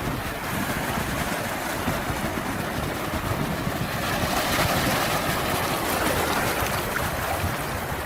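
Sea waves washing in a steady hiss, swelling a little louder around the middle.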